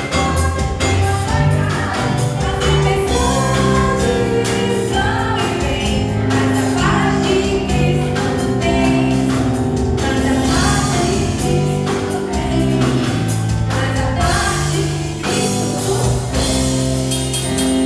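Gospel worship music: a group of voices singing together over a steady bass line and a regular percussion beat.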